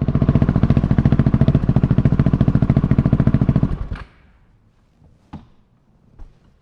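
KTM 690 SMC R's single-cylinder engine idling loudly through its exhaust, a steady rapid thumping. About four seconds in it cuts off abruptly, leaving only a few faint clicks.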